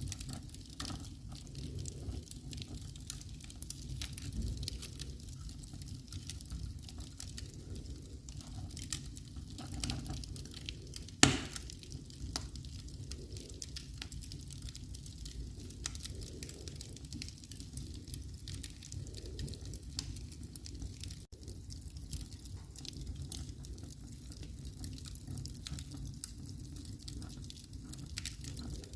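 Wood fire crackling in a fireplace: scattered small pops and snaps over a low steady rumble, with one louder sharp pop about eleven seconds in.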